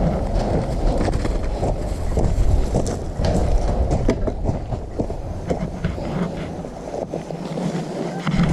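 Wind buffeting the microphone over a steady low rumble, as from riding in or on a moving vehicle, with scattered knocks and rattles throughout.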